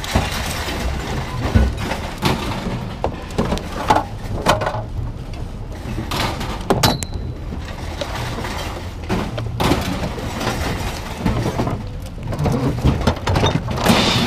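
Scrap metal clanking and clattering as pieces are thrown off a truck onto a pile, over a steady low rumble. About seven seconds in, one sharp metallic clang leaves a brief ringing note.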